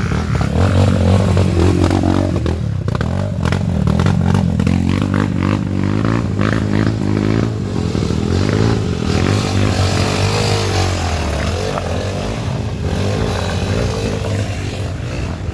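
Off-road dirt bike engines revving, rising and falling in pitch again and again, with more than one engine heard at times.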